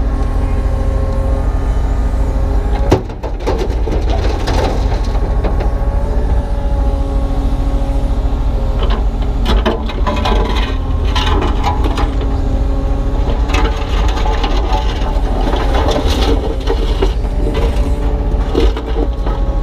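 Kubota U35-3 mini excavator's diesel engine running steadily under hydraulic work, with clanks and scraping of the steel bucket against broken concrete and stones. There is one sharp knock about three seconds in, and clusters of short knocks and crackles in the second half.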